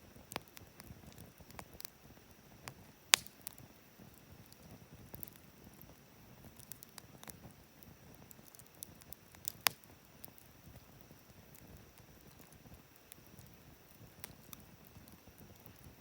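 Wood campfire crackling in a fire stand, with a soft low rustle of flame under scattered small crackles and two sharp, louder pops, about three seconds in and just under ten seconds in.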